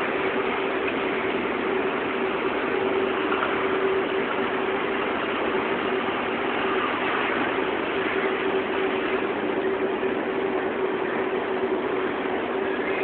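Fully automatic fabric spreading machine running with a steady mechanical whir and one constant hum.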